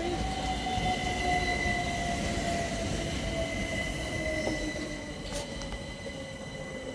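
Class 375 Electrostar electric multiple unit running through, its traction motors whining in steady tones over a rail rumble, the whine sliding slowly down in pitch as the sound fades.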